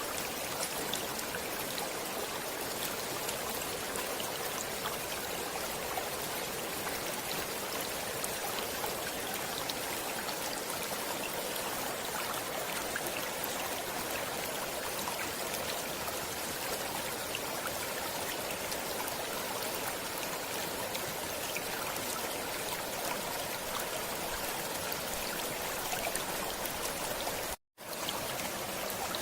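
Stream water flowing and trickling steadily, a continuous even rush with no other sound. Near the end it cuts out to silence for a split second, then resumes.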